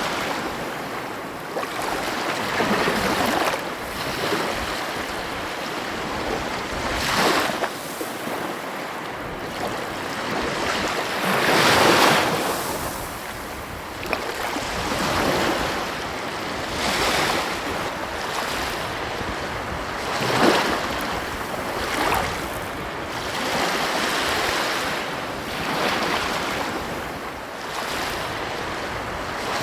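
Ocean waves breaking and washing on a beach, a continuous surf wash that swells every few seconds, strongest about twelve seconds in, with some wind on the microphone.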